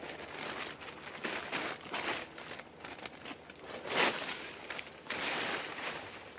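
Irregular crunching and rustling, with the loudest crunch about four seconds in.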